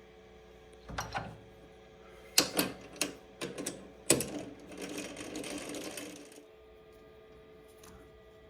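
Steel lathe collet and collet chuck being handled and fitted: a series of sharp metallic clinks and knocks, then about two seconds of rattly scraping that stops abruptly.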